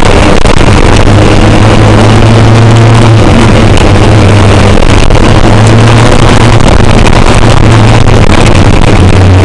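Kawasaki ZX10R inline-four motorcycle engine in an open kit car, running steadily while under way, heard loud and distorted from the cockpit with a dense noise haze over it, its note dipping briefly a few times.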